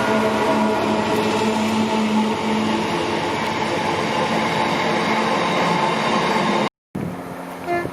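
A train passing with a steady rail and engine noise. It cuts off suddenly about seven seconds in and comes back much quieter.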